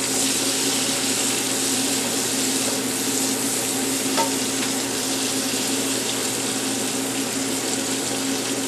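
Onions and sliced peppers sautéing in a pan over low heat: a steady sizzle, with a faint steady hum beneath it and a light tap about four seconds in.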